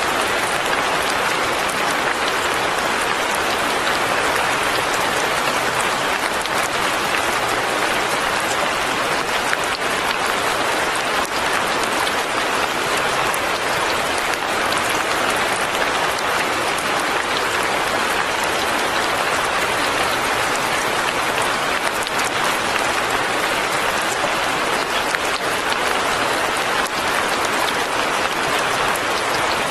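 Light rain falling steadily, an even, unchanging hiss.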